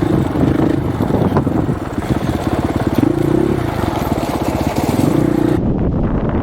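Husqvarna 501 dirt bike's single-cylinder four-stroke engine running under riding load, its pitch rising and falling with the throttle. Wind buffets the unshielded microphone over it.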